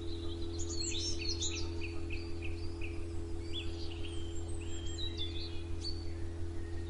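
Several songbirds chirping and twittering in short overlapping calls, over a steady low hum with a few held tones underneath.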